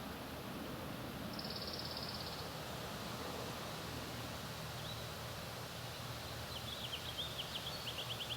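Small birds singing over a steady background hiss: a short, fast, high trill about a second in, a single note around the middle, then a quick run of chirps near the end.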